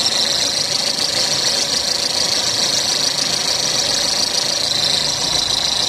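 Maruti Suzuki Ertiga engine idling, with a steady high-pitched whine from the belt-drive pulleys: worn pulley bearings, which the mechanic blames for the noise.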